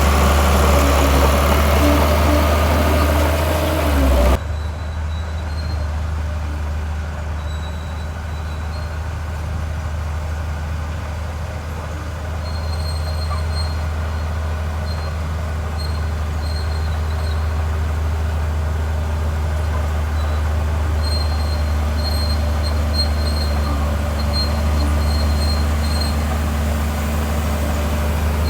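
Heavy diesel engine of earthmoving machinery running steadily with a deep drone. A louder, harsher noise over it cuts off abruptly about four seconds in.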